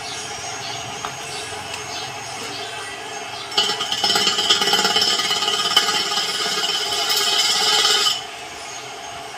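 Steady workshop machinery hum. About three and a half seconds in, a power tool working metal sets up a loud, harsh hiss that lasts about four and a half seconds and then cuts off suddenly.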